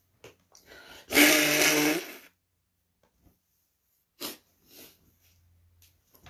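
A loud, noisy outburst of breath from a woman, about a second long and starting about a second in, with a low pitched tone under it, followed later by two short, quieter breaths or sniffs.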